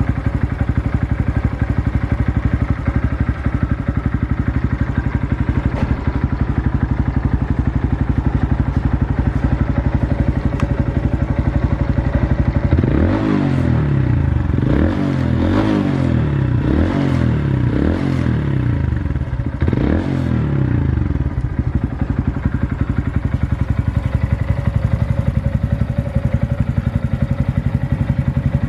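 Honda Monkey 125's single-cylinder four-stroke engine running through a BEAMS aftermarket muffler: steady idle, then about five quick throttle blips between roughly 13 and 21 seconds in, each rising and falling in pitch, before settling back to idle.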